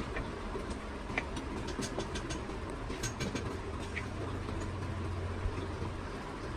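Workshop noise: scattered light clicks and taps over a steady low hum.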